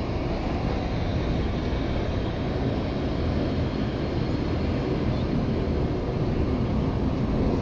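Steady low rumbling background noise with no distinct sounds standing out.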